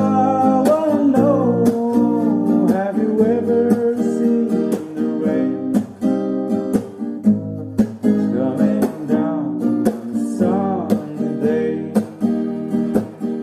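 Acoustic guitar strummed in a steady rhythm, with a singing voice over it in phrases near the start and again in the second half.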